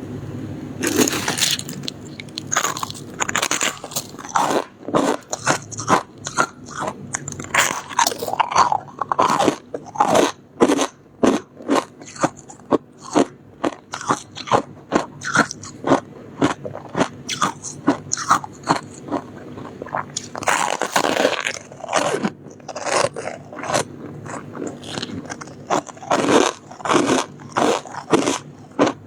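Close-miked crunching and chewing of soft, frosty shaved ice: a quick run of crisp crunches, about two a second, with one longer, grinding crunch about two-thirds of the way through.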